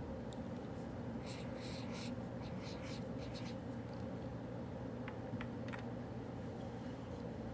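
Writing on paper: a run of quick scratchy strokes from about a second in until about three and a half seconds, then a few light ticks, over a steady low hum of the room.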